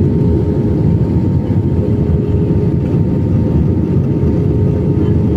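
Airliner cabin noise in flight: a loud, steady low rumble of engines and airflow heard from inside the passenger cabin, with a faint steady hum over it.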